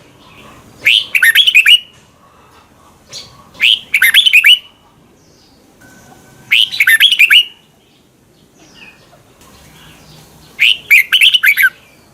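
Red-whiskered bulbul singing: four short phrases of quick, clear whistled notes, about one every three seconds.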